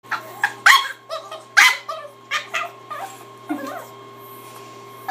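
A dog making weird noises: a quick string of about seven short calls whose pitch slides up and down, then a quieter pause for the last second or so.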